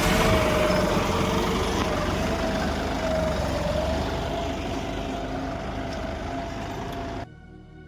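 John Deere tractor engine running steadily, its sound gradually fading, then cutting off abruptly near the end.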